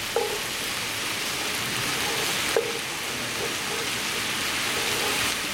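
Sliced leeks and vegetables sizzling steadily in oil in a cast-iron Dutch oven while being stirred with a wooden spoon, with a brief knock of the spoon about two and a half seconds in.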